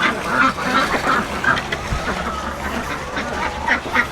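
A flock of domestic ducks quacking as they rush out of their house, with many short calls overlapping throughout.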